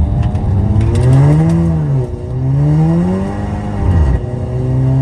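Tuned Audi TT's engine under spirited driving: the revs climb and drop back twice, then hold steady near the end.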